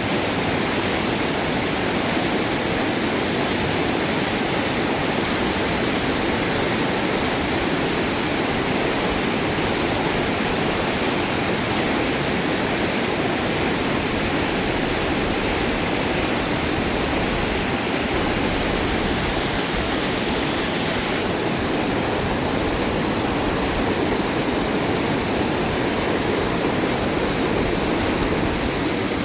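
Fast-flowing river water rushing steadily, a loud even roar.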